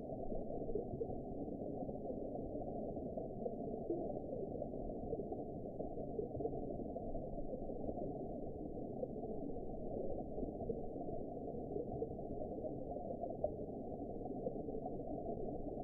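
Steady, muffled underwater ambience: a dull, even rushing noise with all the treble cut away and no distinct events.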